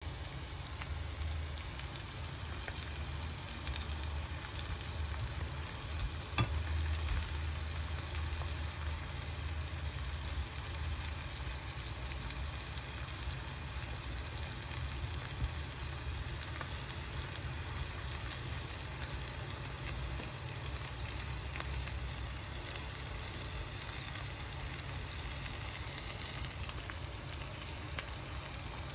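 Whole prawns frying in garlic butter in a nonstick pan: a steady sizzle full of small crackles and pops, with one sharper pop about six seconds in.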